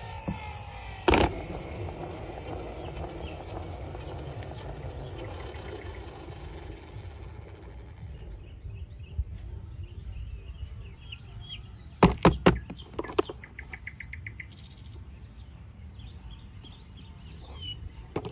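Small birds chirping in short calls, with a quick trill a little after halfway, over a low steady background rumble. A sharp knock comes about a second in, and a cluster of louder knocks near two-thirds of the way through.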